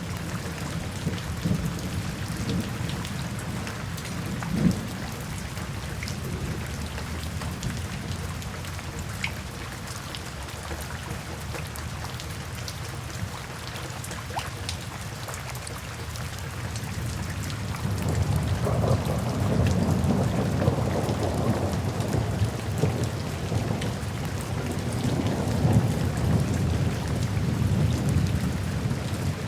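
Steady rain falling, with scattered drop ticks. Low rolling thunder rumbles throughout and swells louder about two-thirds of the way in, lasting almost to the end.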